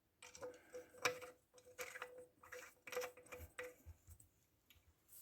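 Faint, irregular small clicks and taps of metal on metal, some with a brief ring, from the parts of a small electric toy steam engine being handled.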